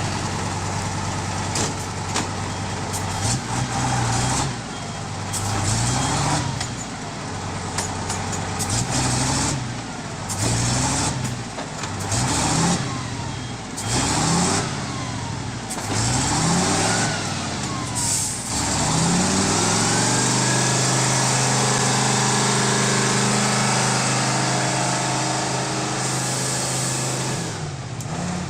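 Heavy vehicle engine revving up and down over and over, about once a second or so, then held at a steady high speed for several seconds before easing off near the end.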